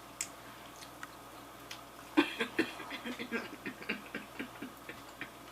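Close chewing and mouth sounds of someone eating sauced crispy chicken wings: a few scattered clicks, then from about two seconds in a dense, irregular run of crunching and smacking that eases off near the end.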